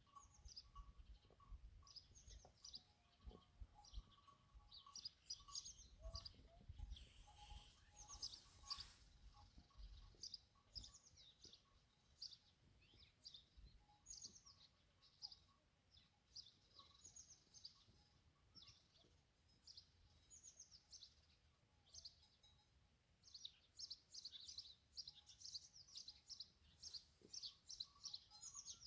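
Faint chirping of small birds: many short, quick high chirps in clusters, thickest near the end, with a faint low rumble in the first half.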